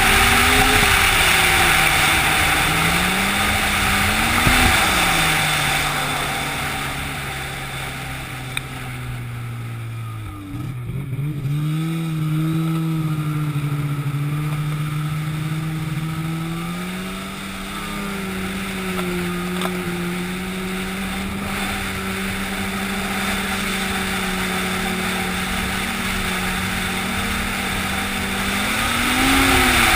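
An engine running, its pitch sinking and then climbing again as its speed changes, under a steady hiss. It dips lowest about ten seconds in, then settles at a steady speed.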